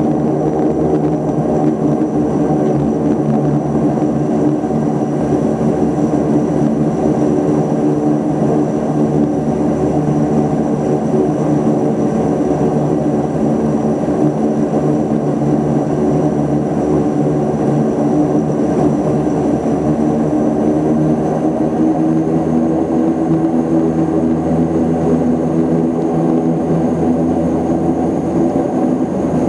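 Antonov An-24's twin turboprop engines running steadily: a loud, even propeller drone with a thin high whine above it that edges up slightly after about twenty seconds.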